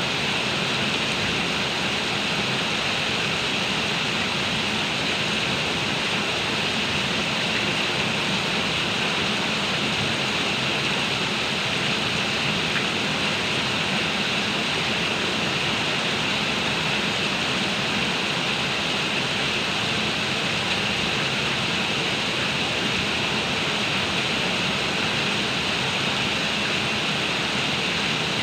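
Heavy rain pouring down steadily as one even, unbroken hiss.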